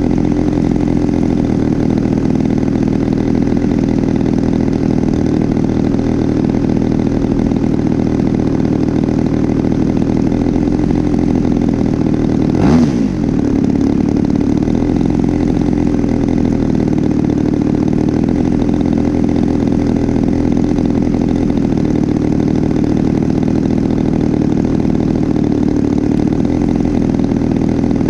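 DLE 35RA single-cylinder two-stroke gasoline engine of an RC aerobatic plane running steadily in flight, freshly rebuilt with a new top end. About halfway through it passes close by: a brief swell in loudness with the engine pitch falling as it goes away.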